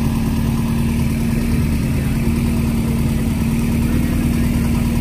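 Car engine running at a steady speed, a constant low hum with no revving.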